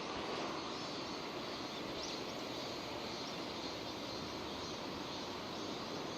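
Steady rain falling, an even hiss with no break, with a faint short chirp about two seconds in.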